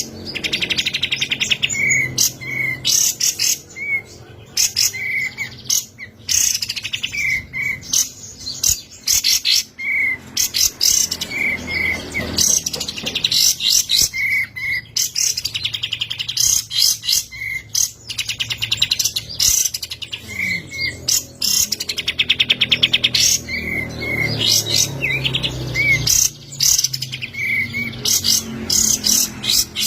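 Kapas tembak bulbul singing without pause: fast buzzing, rolling trills alternate with short repeated whistled notes, all high-pitched.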